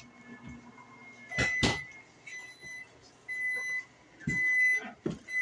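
Microwave oven beeping at the end of its one-minute cycle: four long high beeps about a second apart, after a couple of sharp knocks.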